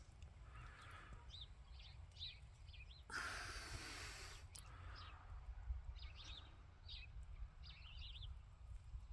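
Faint outdoor quiet with birds chirping here and there, over a steady low rumble. About three seconds in, a brief rush of noise lasts a little over a second.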